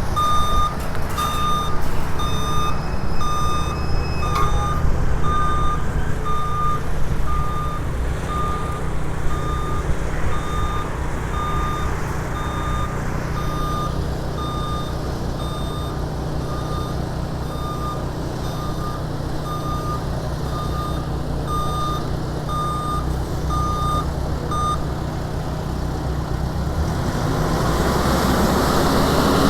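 A vehicle's reversing alarm beeping at an even pace over the low, steady running of its engine; the beeping stops about 25 seconds in.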